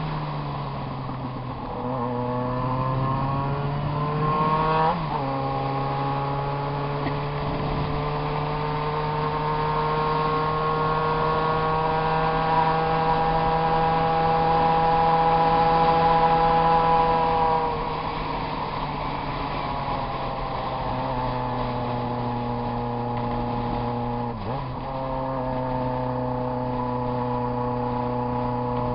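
Yamaha XJ6's inline-four engine running loud. The revs climb over the first few seconds, are held steady at a raised speed for about twelve seconds, then drop back to a lower steady speed.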